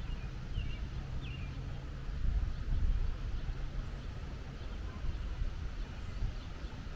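Outdoor ambience: a steady low rumble with a few short bird chirps in the first second and a half.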